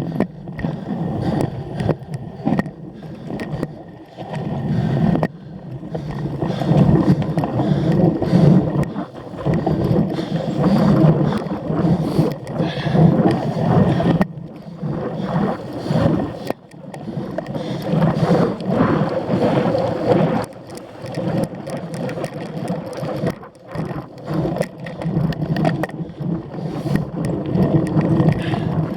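Cyclocross bike being ridden hard over rough ground, heard from the bike or rider: wind buffeting the microphone and tyres rumbling on dirt and grass, with frequent sharp rattles and knocks as the bike hits bumps.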